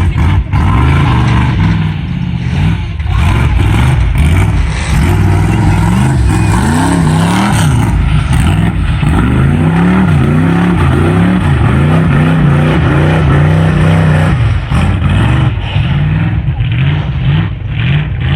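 A mud-bog truck's engine running loud, revving up and down in quick repeated surges through the middle of the stretch before settling back to a steady run.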